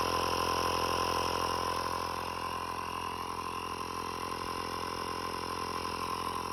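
Portable air compressor running steadily, a constant motor hum and whine while it pumps up a car tire that has a slow leak.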